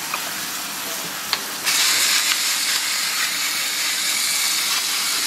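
Ground beef and bell peppers frying in a skillet with a steady sizzle. The sizzle grows louder about a second and a half in and holds there.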